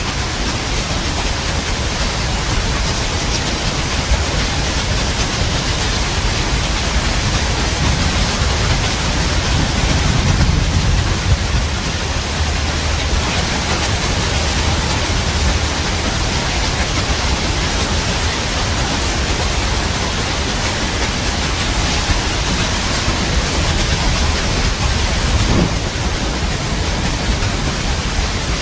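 Steady rain hiss with a low thunder rumble that swells about a third of the way in and fades.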